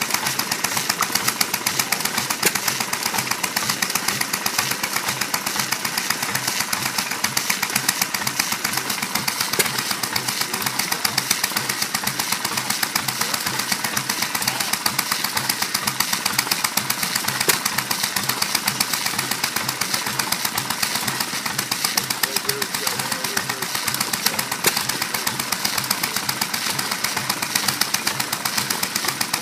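Hit-and-miss stationary engine running steadily: a fast, even clatter of ticks with no pause.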